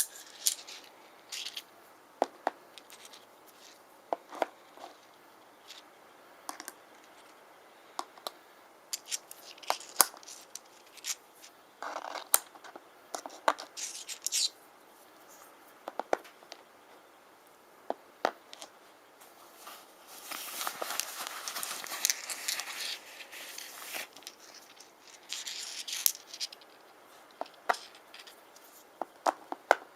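Rune stones being tapped and clicking against each other, with fingernails scratching over them in a longer rasping stretch about two-thirds of the way in.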